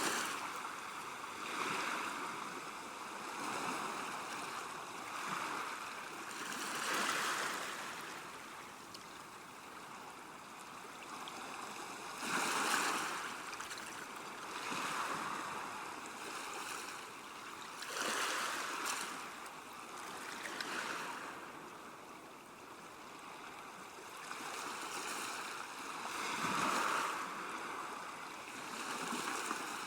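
River water washing against a bank, swelling and easing every few seconds.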